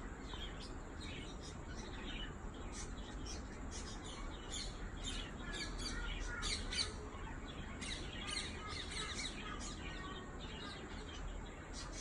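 Small wild birds chirping: a busy run of short, high chirps from several birds, thickest around the middle, over a faint steady low rumble.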